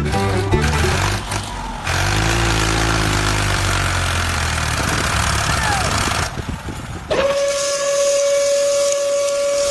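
Vehicle sound effects: a rumbling engine under a loud hiss, then about seven seconds in a single long, steady horn blast.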